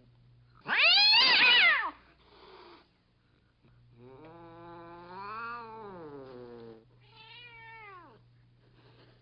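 Cat meowing three times: a loud, high yowl about a second in, then a long drawn-out meow that rises and falls, and a shorter falling meow near the end.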